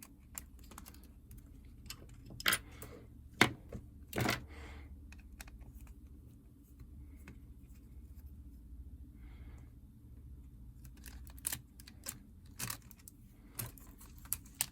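Scattered small clicks and taps of tools and plastic parts being handled while taking apart a Nintendo DS Lite, with a few sharper clicks, over a low steady hum.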